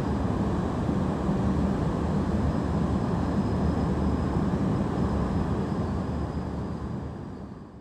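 Tohoku Shinkansen train running through the station, a steady loud rumble of rolling and rushing air that fades out near the end.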